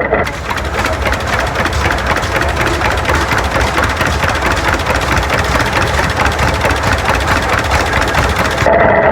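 Tractor engine running close by, with a fast, even beat of exhaust pulses; it starts just after the beginning and cuts off sharply near the end.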